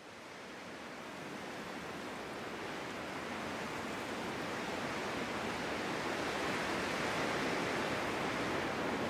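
Steady rushing noise of snowstorm wind, fading in from silence and growing gradually louder.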